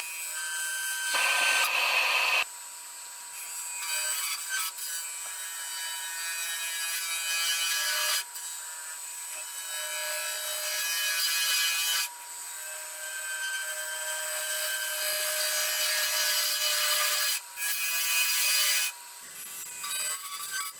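A tool worked against a spinning wood-and-resin blank on a wood lathe, a steady scraping hiss in several bouts of a few seconds each with brief breaks between them.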